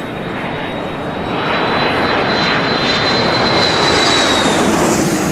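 HAL HTT-40 turboprop trainer flying in, its engine and propeller noise growing louder about a second and a half in, with a thin high whine over the roar.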